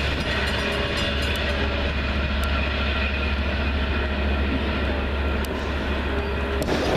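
A train going by, a steady, continuous running noise with a strong low hum throughout.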